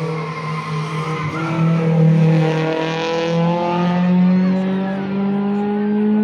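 Rally car engine under load, its pitch climbing steadily with a brief dip just after a second in, while a hiss of tyre noise swells around the middle and fades.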